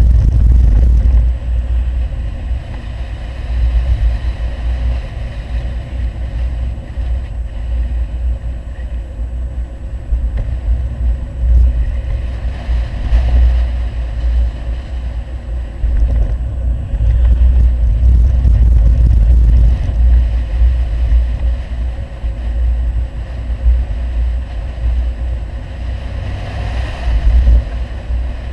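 Five-cylinder engine of an Audi 100 2.3 quattro running through a CAC aftermarket exhaust while the car is driven. A deep exhaust rumble swells and eases repeatedly, with loud surges at the start, in the middle and near the end.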